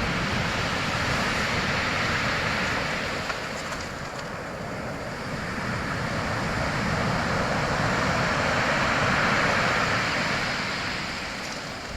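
Sea waves breaking and washing in: a continuous rushing surf that swells up twice and eases off between.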